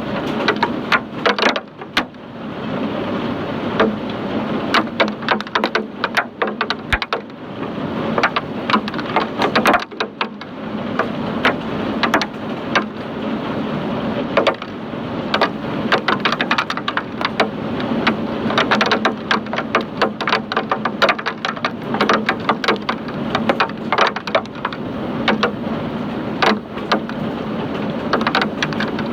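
Hailstones pelting down hard in a hailstorm, a dense, loud rattle of countless individual hits over a steady wash of noise.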